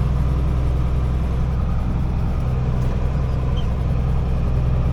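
Diesel engine of a 1985 International Eagle semi truck idling steadily, heard from inside the cab.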